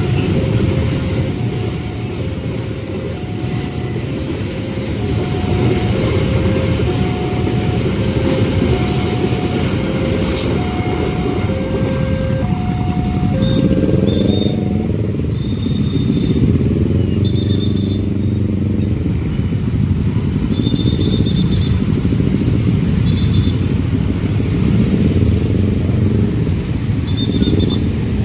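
Level crossing warning alarm sounding a repeated two-note chime, alternating high and low about once a second, over a heavy steady rumble of a train running through the crossing. About halfway through the low chime stops and higher, shorter tones continue over the rumble.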